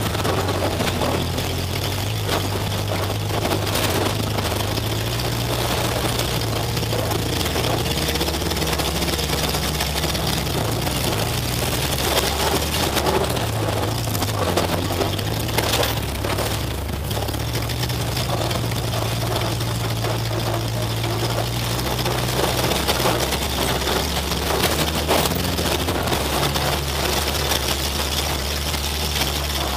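Demolition derby car's engine running, heard from inside the cockpit: a loud, low drone that holds steady and shifts in pitch a few times, with a couple of sharp knocks.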